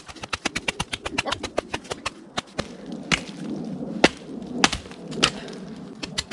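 Wooden baton striking the spine of a small 440C-steel fixed-blade knife as it is batoned through wood: a quick run of light taps, then single harder blows about every half second.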